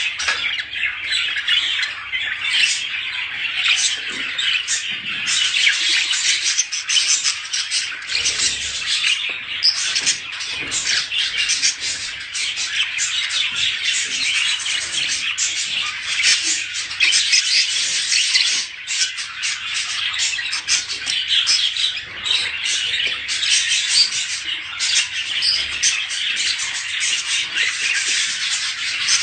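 A flock of budgerigars chattering and squawking without a break, many birds' short warbling calls overlapping. This is the breeding chatter played to caged birds to get them to mate.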